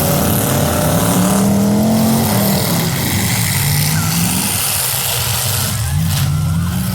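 Demolition derby cars' engines revving, the pitch climbing and falling again and again over a steady low rumble.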